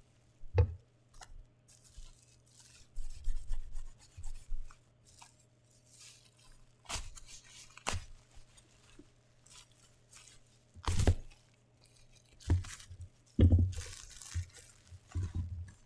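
Cardboard box and plastic packaging of a figure being handled and opened: intermittent tearing and rustling with scattered knocks and clicks, over a faint steady low hum.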